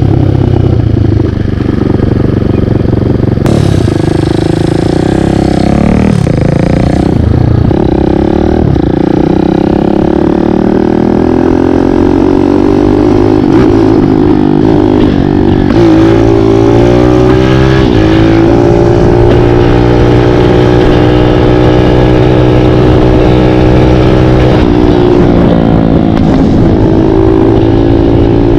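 Kawasaki KLX dirt bike with a 178 cc big-bore single-cylinder engine being ridden, revving up through the gears with the pitch rising and dropping back at each shift. It then holds a fairly steady pitch for several seconds, dips briefly near the end, and picks up again.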